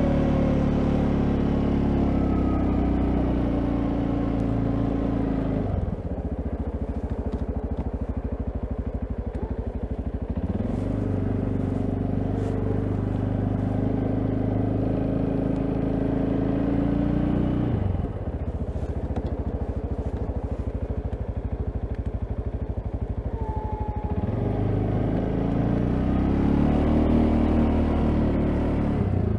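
CFMOTO CForce ATV single-cylinder engine pushing a snow plow: it is throttled up under load three times, each time for about six or seven seconds, and drops back to idle in between, near 6 s, 18 s and at the very end.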